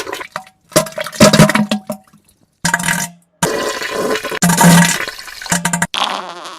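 Wet, spluttering diarrhea and fart sound effects in a run of separate bursts of different lengths, each cut off abruptly, some carrying a low buzzing tone.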